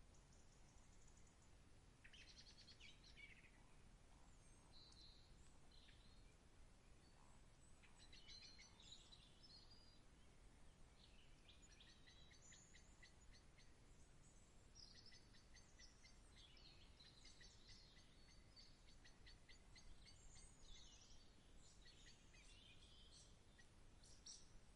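Faint birdsong: several small birds chirping and trilling again and again, busiest in the second half, over a low steady background rumble.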